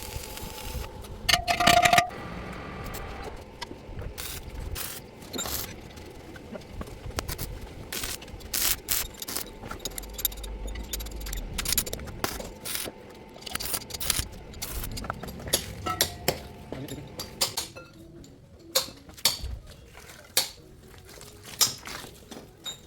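Metal parts clinking and knocking against each other in irregular short strikes, with one loud ringing clank about a second and a half in.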